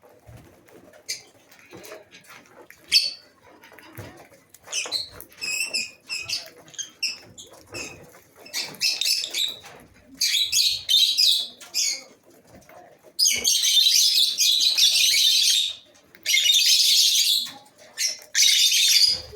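A colony of lovebirds calling: scattered chirps at first, building in the second half into loud, shrill, continuous chattering in stretches of a few seconds each.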